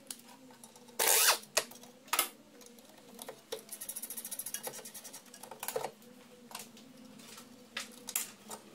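Ratchet wrench undoing the two 16 mm brake caliper bracket bolts. Two loud sharp knocks come first, then a fast even run of ratchet clicks, about ten a second, with a few more knocks of tools and parts near the end.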